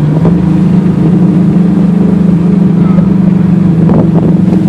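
2014 Ford Mustang GT's 5.0 V8, fitted with longtube headers and SLP Loudmouth axle-back mufflers, heard from inside the cabin as it cruises at a steady engine speed. The exhaust drones at one steady pitch.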